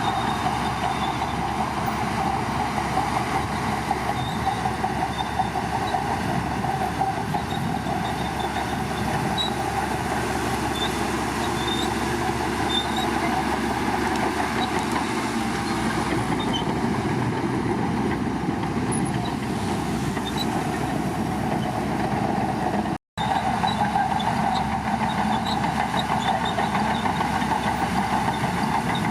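Shantui bulldozer's diesel engine running steadily with a low rumble, cut by a split-second gap about three-quarters of the way through.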